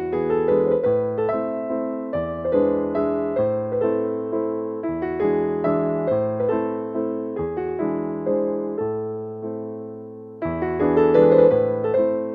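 Background music: a gentle piano or electric piano playing repeated chords and notes over changing bass notes, each note struck and fading.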